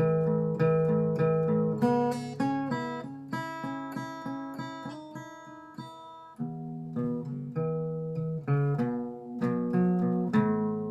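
Acoustic guitar music: plucked notes and chords at a steady pace, with a short lull around the middle before the playing picks up again.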